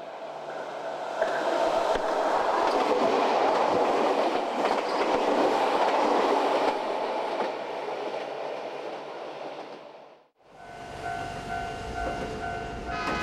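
Stainless-steel electric commuter train passing close by: wheel-on-rail noise that builds over the first couple of seconds, stays loud for several seconds, then fades. After a sudden cut, a quieter steady whine over a low rumble.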